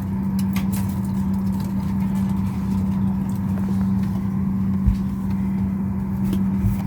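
Steady low hum and rumble in a Boeing 737 MAX 8 airliner cabin, parked before engine start, with two soft low thumps, one about five seconds in and one near the end.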